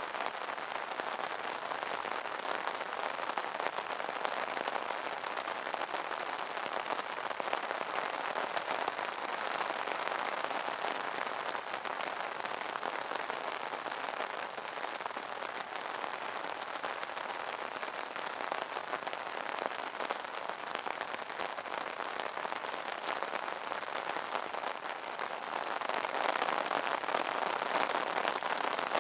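Steady rain pattering on an umbrella canopy, a dense even patter of many small drops, growing a little heavier near the end.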